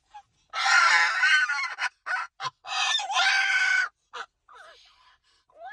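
Moluccan cockatoo giving two long, harsh screeches, each over a second, with a few short squawks between and after.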